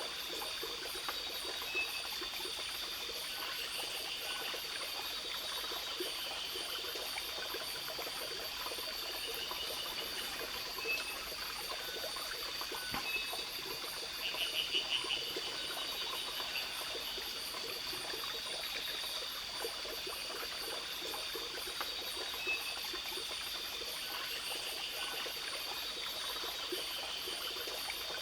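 Forest night-chorus ambience over a running stream: a steady high insect trill and a faster pulsing one above it, with short pulsed chirping calls repeating throughout. The loudest chirping call comes about halfway through.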